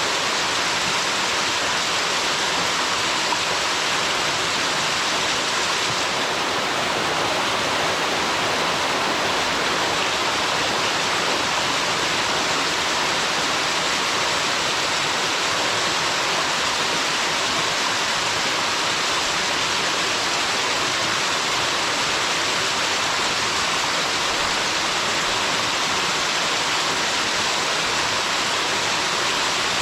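Kyogan Falls, a waterfall with water shooting out forcefully, rushing in a steady, even roar with no breaks.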